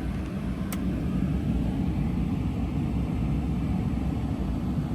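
Steady running noise in the cab of a 2024 Ram 1500 Laramie: the Hemi V8 idling while warming up from a cold start, with the heater blowing on high. A single sharp click comes just under a second in.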